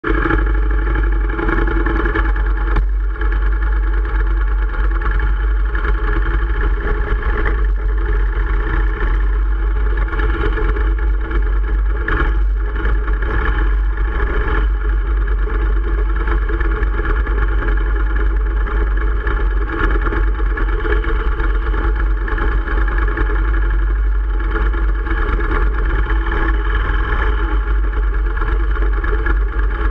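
Sport motorcycle engine running steadily at low revs, heard up close from the bike itself, with a strong low rumble.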